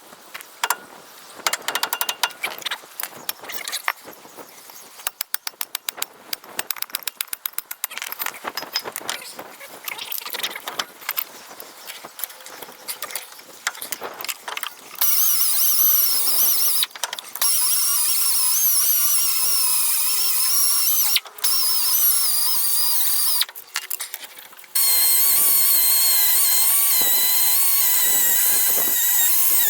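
A run of rapid clicks and taps from hand tool work, then a loud, high-pitched power tool whine that starts and stops abruptly in several long bursts, with short gaps between them.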